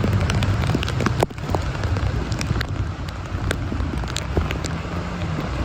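Heavy rain falling, with many sharp drop hits, over the low rumble of a motorbike engine running.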